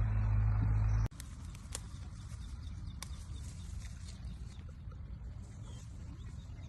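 A steady low motor-like hum that cuts off abruptly about a second in. Then quiet outdoor ambience with scattered faint ticks and small high chirps.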